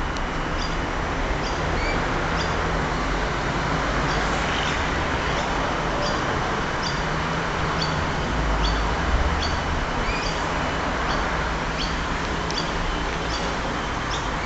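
A bird repeating a short, high chirp that drops in pitch, about twice a second, over a steady background rumble.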